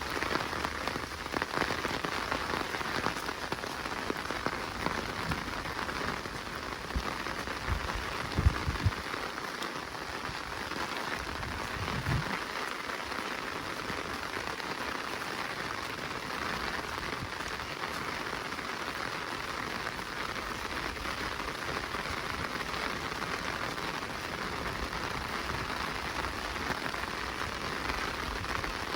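Steady rain falling in a forest, an even, dense patter of drops. A few low thuds come in the first third.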